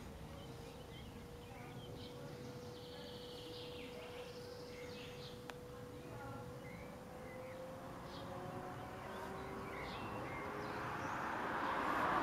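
Small birds chirping now and then over a steady distant hum. A rushing noise swells louder near the end.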